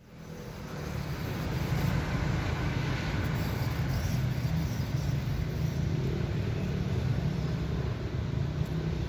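Steady low traffic rumble from road vehicles, fading in over the first two seconds and then holding level.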